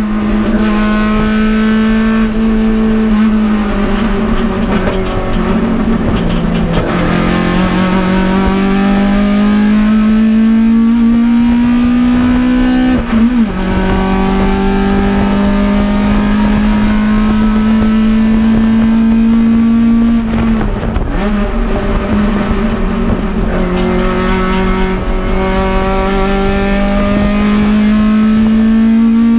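Toyota AE86 Corolla's 4A-GE twin-cam four-cylinder engine running hard on track. Its pitch climbs steadily under throttle and falls back sharply at gear changes about 7, 13 and 21 seconds in, then climbs again.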